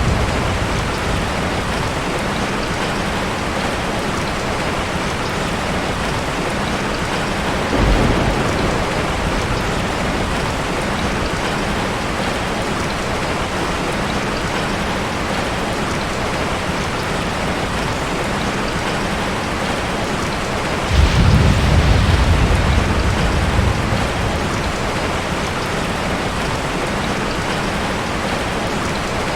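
Steady heavy rain falling, with low rolls of thunder: a short one about eight seconds in and a longer, louder one about twenty-one seconds in that fades over a few seconds.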